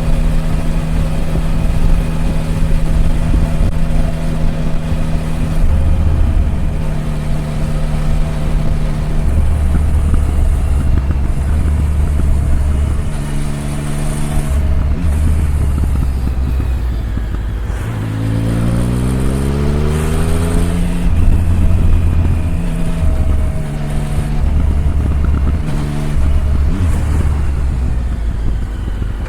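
Triumph Tiger 1050's inline-three engine pulling the bike along at a changing throttle, its note stepping up and down, with a quick rising run-up in revs about two thirds of the way through.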